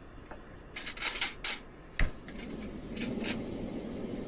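Cookware being handled: a few light clicks and clinks, a heavy knock about two seconds in, then a low steady rushing sound, with two more clicks near the end.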